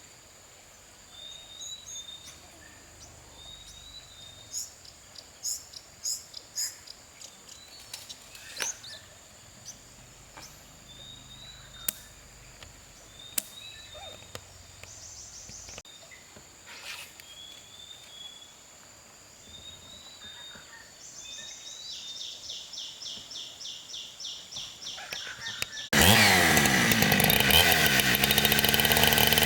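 A steady high insect drone and bird chirps, with a few sharp knocks. About 26 seconds in, a chainsaw starts suddenly and runs loud, its pitch rising and falling as it is revved.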